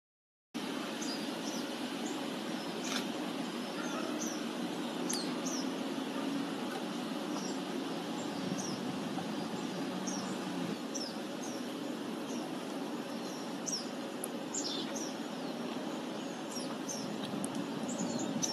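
Small birds chirping: scattered short, high, slurred chirps over a steady low background rumble.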